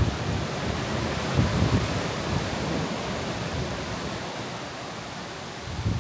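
Steady rushing noise of wind and sea, with low gusts of wind buffeting the microphone about a second and a half in and again near the end.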